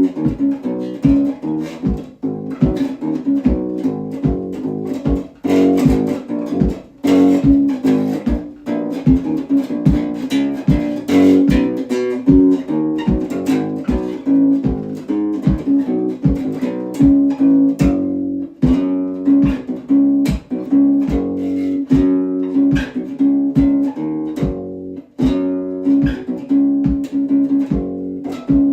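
Solo bass guitar playing a run of plucked notes over a ringing held note, with a few brief pauses between phrases.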